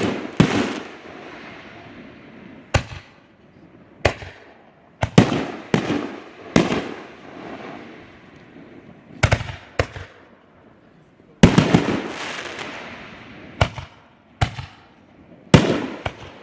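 Fireworks going off: about a dozen sharp bangs at irregular intervals, each followed by a fading crackle. Several come in quick succession about eleven seconds in.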